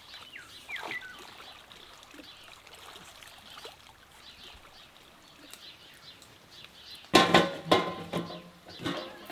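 Faint rural background with a few brief bird chirps, then loud calls from domestic chickens starting about seven seconds in.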